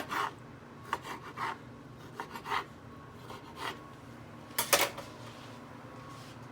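Food being prepared by hand: scattered clicks, taps and rubbing scrapes of containers and utensils being handled, the loudest a couple of sharp clicks about four and a half seconds in.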